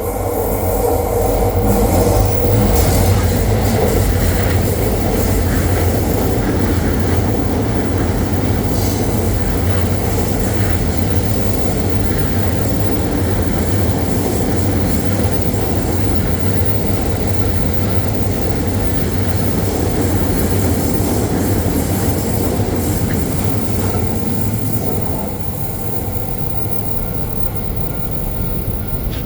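JR East Joban Line E231-series and E531-series electric trains passing over a level crossing: a long, steady rush of wheels running on the rails, loudest a few seconds in and easing a little near the end.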